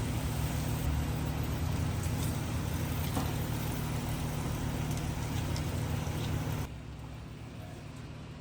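Gas grill running with its burners lit, a steady low rumble; the sound drops off abruptly near the end.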